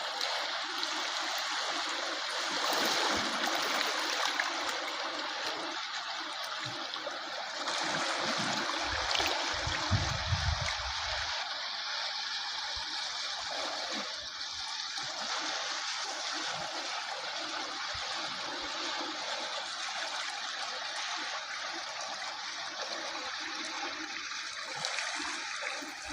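Steady rush of moving water, with a brief low rumble about nine seconds in.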